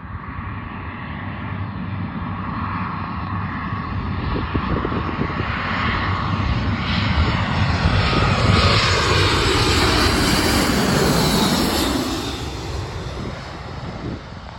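Fixed-wing aircraft engines growing louder as the plane approaches and passes close by, loudest about ten seconds in, then fading away with a falling sweep in tone.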